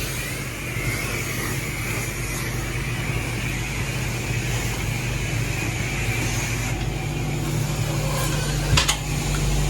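Self-serve car wash pressure washer running: a steady pump hum under the hiss of the spraying water, with a sharp click near the end.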